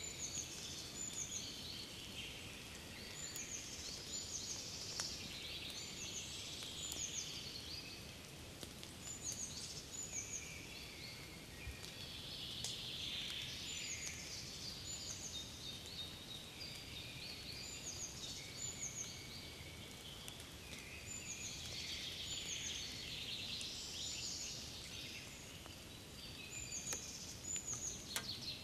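Several songbirds singing together in a spring forest: overlapping short whistled phrases and trills, many falling quickly in pitch and repeated every second or two, over a faint steady low background noise.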